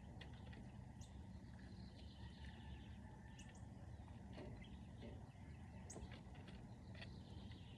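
Faint outdoor ambience: scattered short bird chirps and calls over a steady low background rumble.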